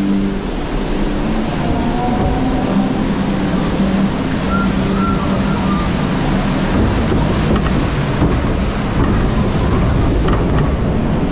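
Loud, steady rushing and churning of water around a river rapids raft, with wind noise on the microphone.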